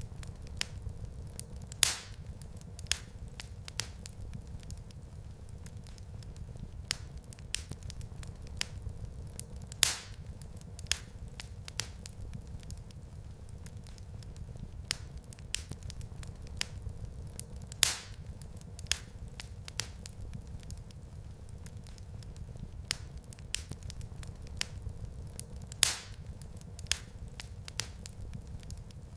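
Wood fire crackling in a fireplace: a steady low rumble of flames under frequent small snaps, with a louder pop about every eight seconds.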